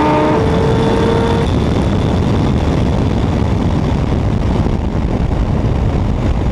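Loud car engine running steadily, a dense noisy sound, with a few thin steady tones over it that fade out in the first second and a half.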